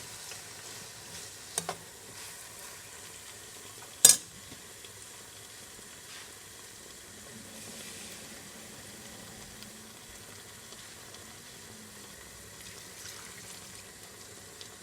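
Chicken and vegetable filling, thickened with cornstarch and milk, sizzling steadily in the pot while it is stirred. A sharp knock sounds about four seconds in, with a smaller one earlier.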